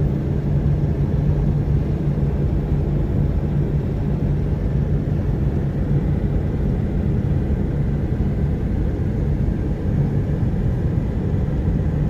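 Steady low rumble of engine and road noise from inside a moving car, unchanging throughout.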